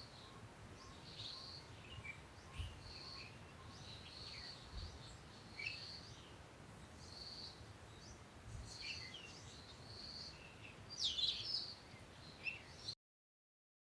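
Birds chirping, one repeating a short high note about once a second, with other scattered chirps and a livelier burst near the end, over a faint steady hiss; the sound cuts off suddenly shortly before the end.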